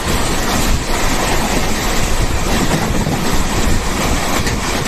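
Express train running along the track: a loud, steady rumble and rush of wheel and rail noise.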